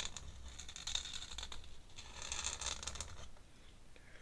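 Ink pen scratching across sketchbook paper in a few drawn strokes, with a longer stretch of scratching about two seconds in.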